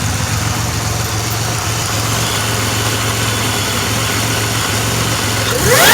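2007 Pontiac Grand Prix GT's 3.8-litre V6 idling steadily, then revved sharply near the end, its pitch climbing fast. The engine runs again after a fuel pump relay and spark plug fix, and a small exhaust leak is suspected at the rear manifold.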